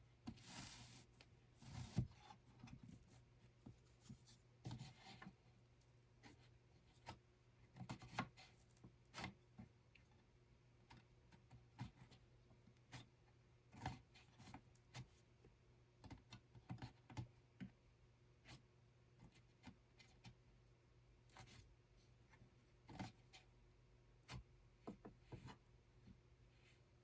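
Faint, irregular small clicks, taps and scrapes of hand weaving work at a loom, over a steady low hum.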